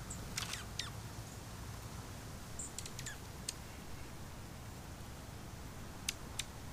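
Scattered short, sharp chips and ticks from small birds, a few at a time with gaps between, over a steady low outdoor rumble.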